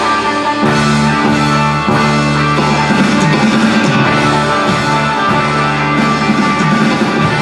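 Rock band playing, with electric guitar to the fore: sustained chords and held notes over a steady band sound.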